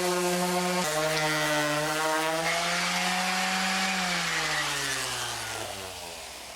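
Electric sanding tool's motor running with a steady whine, pulling down slightly about a second in as it takes a load, then switched off and winding down, the pitch falling away over the last couple of seconds.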